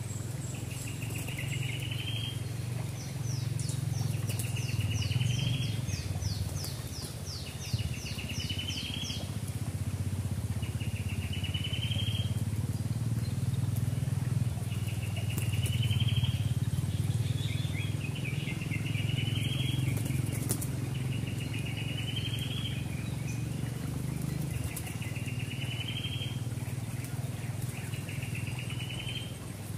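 A bird calling over and over, about every three and a half seconds; each call is a quick rising trill that ends in a short, sharp higher note. For several seconds near the start a faster, higher series of notes sounds with it, and a steady low rumble runs beneath.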